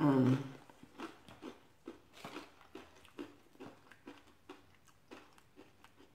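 Chewing Frito corn chip scoops with chili: a steady run of crunching bites, about three a second, that grows softer near the end.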